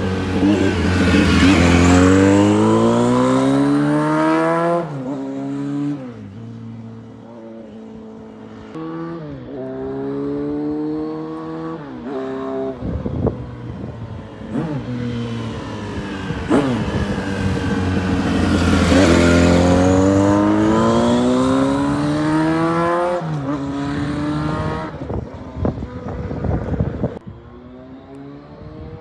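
Kawasaki KZ1100R's air-cooled inline-four, bored out to 1135cc, being ridden hard: the engine note climbs in pitch and drops sharply at each upshift through the gears, twice over, easing off in between.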